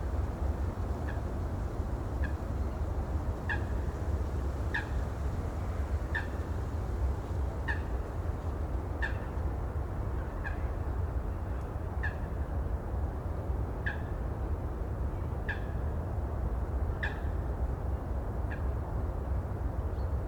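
Steady low rumble of ocean surf and wind, with a short high bird call repeated about every second and a half.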